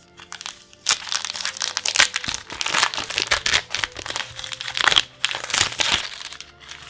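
Plastic foil wrapper of a Magic: The Gathering booster pack crinkling loudly as it is handled and opened. The crinkling starts sharply about a second in and dies down near the end.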